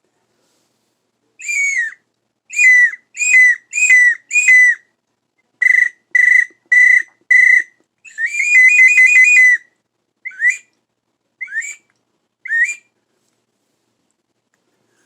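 Hand-crafted brass bird call blown in a string of whistled notes: five short notes that drop in pitch at their ends, four short level notes, a quick warbling trill lasting about a second and a half, then three short rising chirps.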